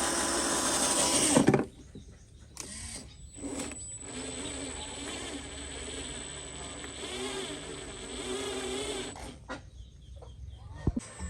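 Small electric motors of radio-controlled construction models whirring and changing pitch, after a loud burst of noise that stops about a second and a half in.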